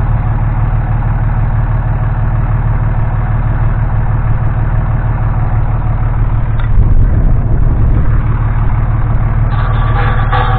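An engine running steadily at idle, a low even hum, a little louder and rougher about seven seconds in.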